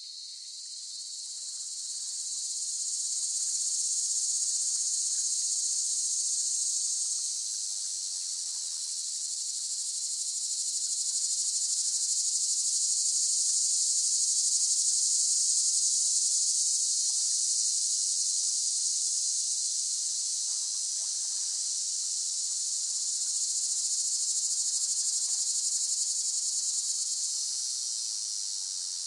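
Cicadas buzzing in chorus: a continuous high-pitched drone that slowly swells and eases in waves.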